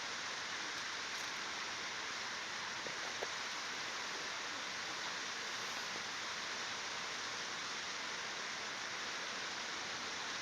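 Flowing water rushing steadily, with a faint tick about three seconds in.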